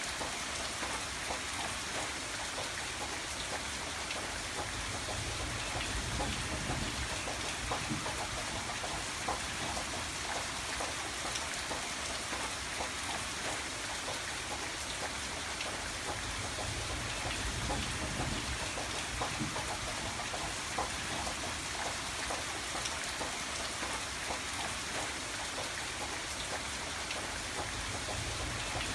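Steady rain falling in a continuous even hiss of drops, with a low rumble swelling now and then.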